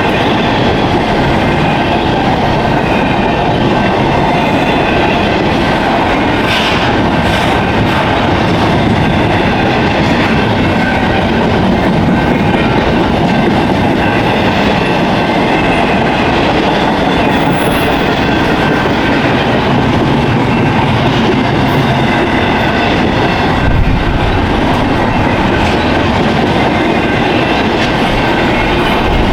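Intermodal freight train cars rolling steadily past, wheels clattering over the rail joints, with faint thin squeal tones from the wheels.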